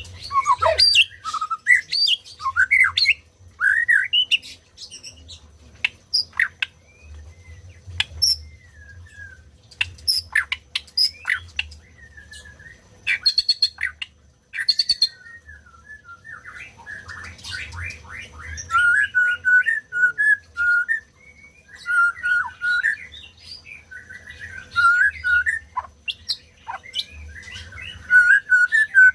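White-rumped shama singing a varied song of whistled phrases, gliding notes and quick chirps, broken by short pauses.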